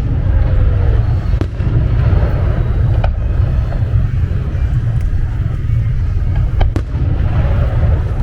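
Fireworks display: a continuous deep rumble of detonations with a handful of sharp cracks scattered through it.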